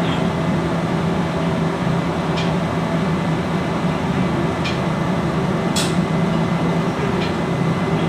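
Steady mechanical drone with a constant low hum, and a few faint, short high-pitched clicks spread through it.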